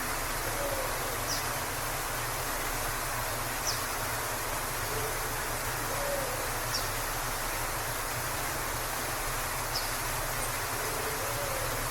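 Waterfall rushing steadily. A bird gives faint low calls that rise and fall, several times, and brief high chirps cut in about four times.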